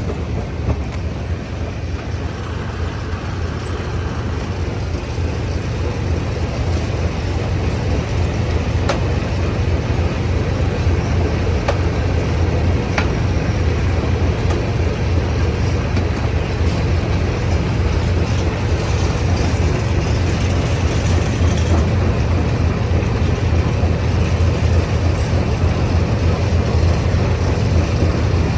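Stone crusher machinery running steadily with a heavy, low drone, and a few sharp knocks about a third of the way through.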